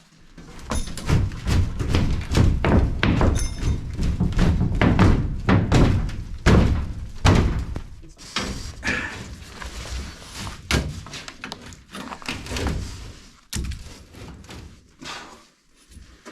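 Many irregular thumps and bangs of a person climbing and squeezing into a sheet-metal ventilation duct, body, knees and hands knocking against the metal. They come thickest in the first half and thin out toward the end.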